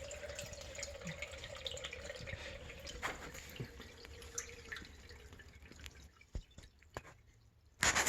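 Water trickling and dripping into a sump pump pit during heavy rain inflow, with scattered drips. A steady hum fades out about three seconds in, and a short knock comes near the end.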